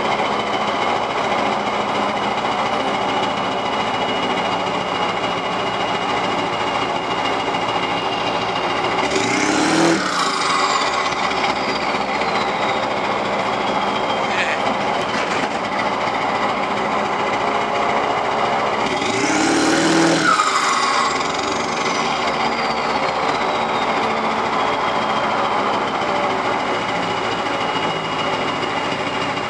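Straight-piped 7.3 Powerstroke V8 turbodiesel with 6-inch stacks idling, blipped twice, about ten seconds apart; after each rev a high turbo whistle falls away over several seconds as it settles back to idle.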